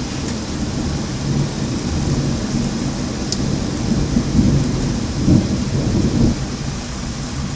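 Steady rain falling during a thunderstorm, with thunder rumbling low underneath and swelling into a louder rolling rumble a little past the middle.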